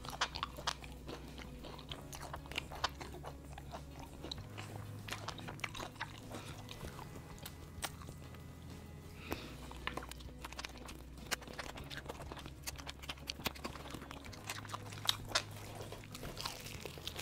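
Close-up chewing and biting of crispy KFC fried chicken: many sharp, irregular crunches of the fried coating amid wet chewing.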